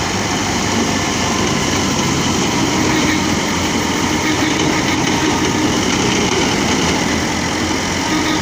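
Tractor engine running steadily, driving a wheat thresher, with the thresher's machinery noise mixed in.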